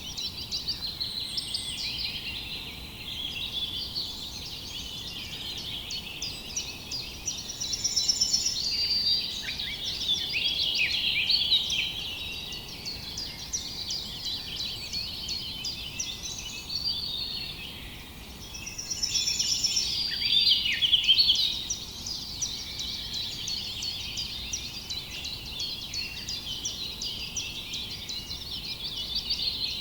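Many small birds chirping and singing together in a dense chorus of quick calls and trills over a faint steady hiss. The chorus grows louder about eight seconds in and again about twenty seconds in.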